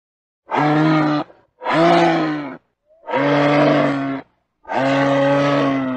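An animal calling four times, each call about a second long with a steady pitch.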